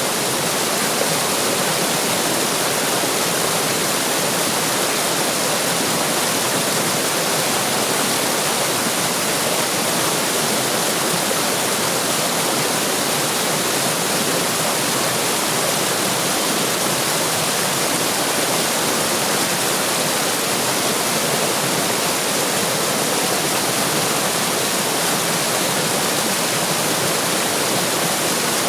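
Running water splashing in a steady, unbroken rush, mostly a bright hiss with little deep rumble.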